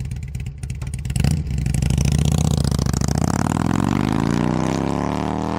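Harley-Davidson motorcycle engine running with a lumpy, pulsing beat, then accelerating from about a second in, its pitch climbing steadily for about four seconds.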